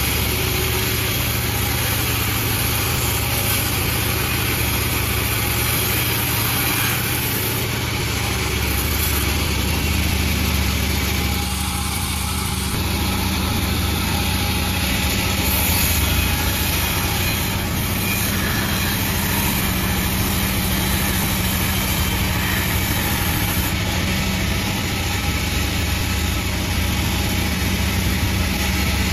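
Sawmill machine running steadily, with a constant low engine hum and no pause or change in speed.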